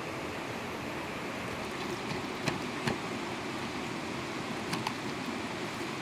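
Steady rushing of a small mountain stream, with a few sharp clicks in the middle and a pair of clicks later.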